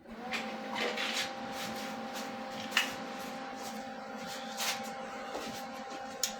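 A small electric motor starts up, rising briefly to speed, then runs with a steady hum, with a few sharp clicks and knocks over it.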